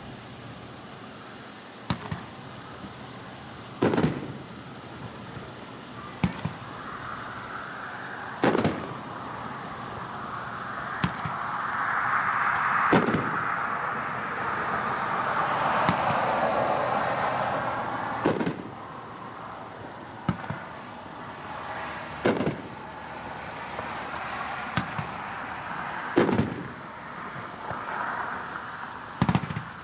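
A Crazy Joe 9-shot 500-gram fireworks cake firing at a distance: about a dozen sharp booms spaced a second or two apart, with a long hissing spell in the middle.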